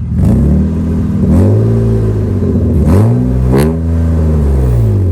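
Car engine revved hard several times in quick succession, the pitch climbing and dropping back with each rev.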